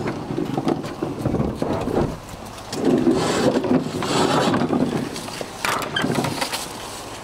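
Wheeled plastic trash can being dragged and rolled over the ground, a rough scraping and rumbling that comes in three bursts with short pauses between.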